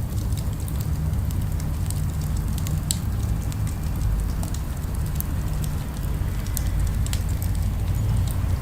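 Fireplace crackle: scattered sharp pops and snaps over a steady low rumble of distant city sound.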